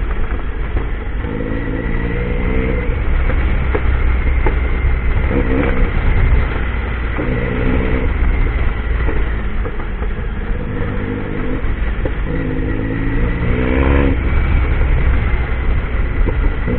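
Motorcycle engine running under way, revving up and easing off in repeated bursts every couple of seconds over a steady low rumble.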